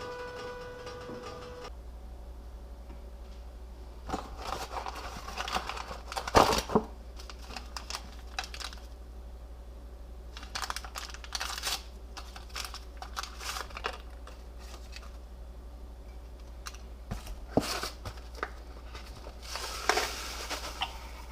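Irregular crinkling and rustling of paper or plastic being handled, in short bursts over a steady low hum.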